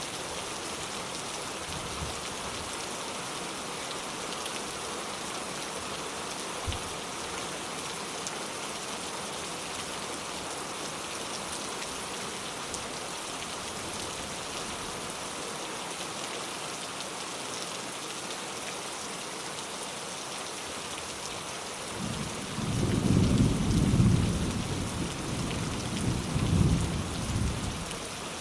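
Steady rain falling, with a low rolling rumble of thunder building about three quarters of the way through, swelling twice and fading near the end.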